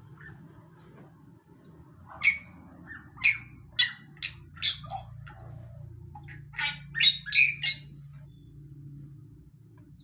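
A bird giving two runs of sharp, loud calls: five notes spaced about half a second apart starting about two seconds in, then a quicker cluster of four or five near the seventh second.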